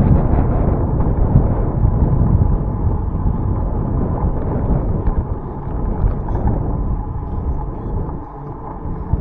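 Wind buffeting the microphone of a camera riding on a moving bicycle: a steady low rush that eases briefly near the end.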